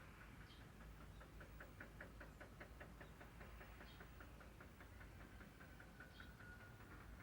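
Faint outdoor ambience: a quick, even run of soft high chirps, about five or six a second, over a low steady rumble.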